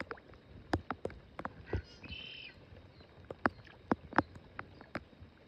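Irregular light taps and clicks, about one or two a second, with a short bird chirp about two seconds in.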